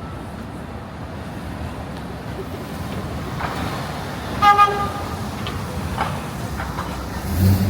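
Street traffic with a car horn honking about four and a half seconds in, a short double toot. A brief low rumble comes near the end.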